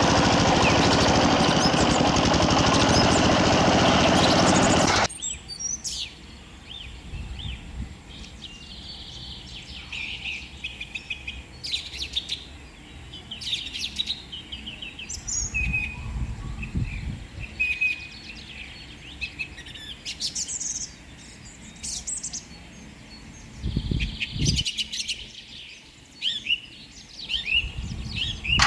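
The small engine of a mini tractor runs loudly for about five seconds, then cuts off suddenly. After that, birds chirp and call in short, scattered phrases for the rest of the time, with a few soft low thuds.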